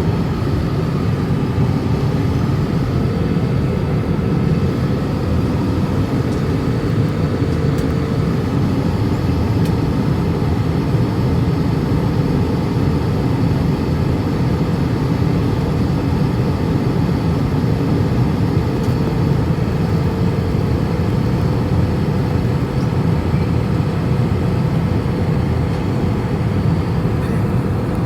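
Steady cabin noise of an airliner in flight: a constant low drone with faint steady tones above it.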